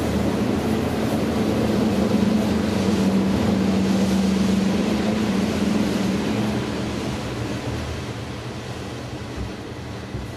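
Steam train sound effect: a steady rumble with a low hum, fading out from about six seconds in.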